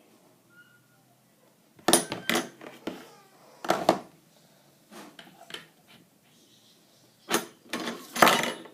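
Clatter and sharp clicks of hard objects being handled, in four short bunches a second or two apart, the last one near the end the longest.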